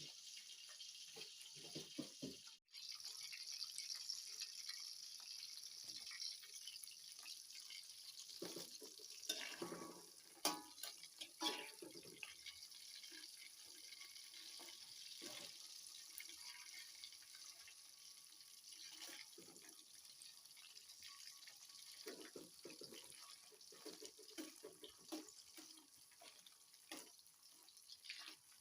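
Faint water sounds: a steady trickle with light splashes and drips.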